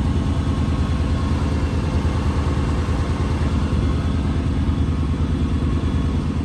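Lexus LX 470's 4.7-litre V8 idling steadily, a low, evenly pulsing engine note heard from beneath the vehicle.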